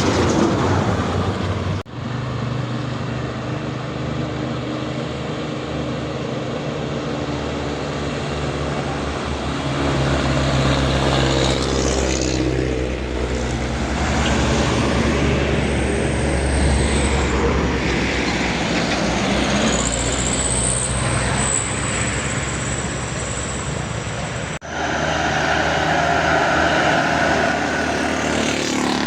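Heavy truck's diesel engine running steadily with road noise. The sound drops out abruptly twice, about two seconds in and near the end.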